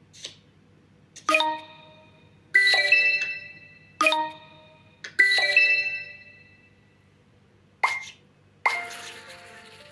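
Single musical notes struck one at a time, each ringing and fading over about a second, with uneven pauses between them and a quicker run of notes near the end.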